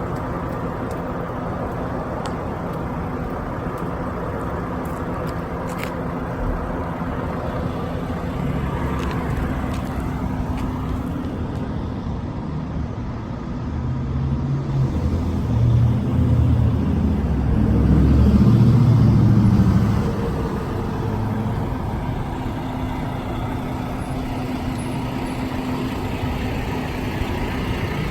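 Semi truck's diesel engine running steadily, growing louder for several seconds in the middle as it takes throttle, then settling back.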